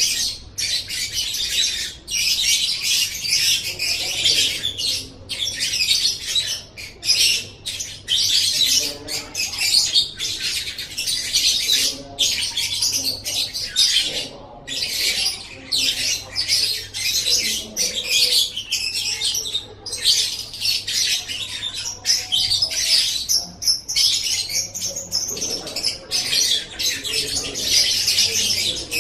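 Lovebird singing a long, nearly continuous high-pitched chattering song, broken only by brief pauses.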